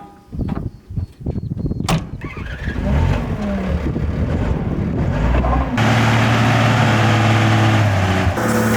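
Engine of an earthmoving machine working, picking up about halfway through into a loud, steady run with a slight change in pitch near the end. A few sharp clicks come before it in the first couple of seconds.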